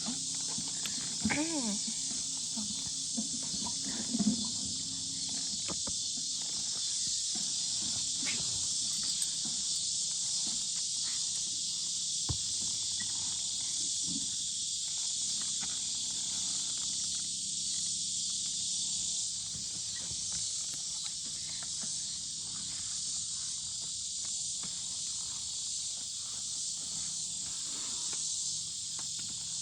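Steady, high-pitched buzzing chorus of insects, such as crickets or cicadas, with faint scattered clicks and rustles and a couple of short voice sounds in the first few seconds.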